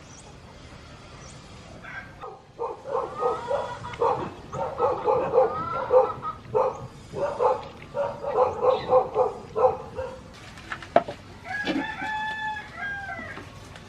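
Chickens cackling in a quick run of repeated calls, then a rooster crows once, a long held call, near the end.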